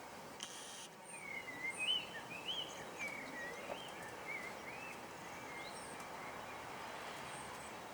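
A songbird singing a run of warbling whistled notes that rise and fall, strongest in the first half, over a steady background hiss of outdoor ambient noise.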